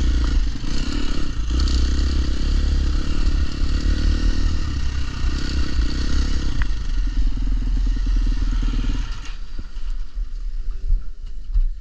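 Dirt bike engine running steadily while riding, until it drops away sharply about nine seconds in, leaving scattered knocks.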